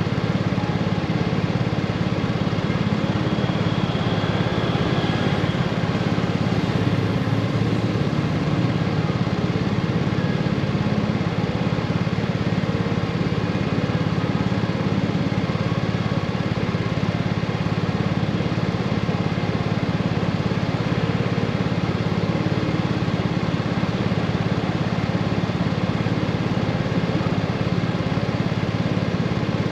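Honda GoldWing motorcycle running steadily: a constant low engine hum under an even rush of noise, with no change in pace.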